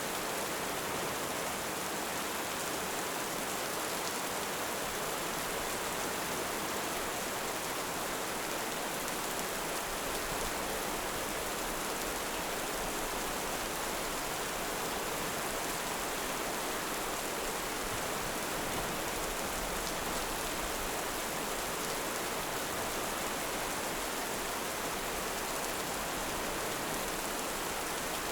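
Heavy rain falling steadily, an even hiss with no thunder or swells.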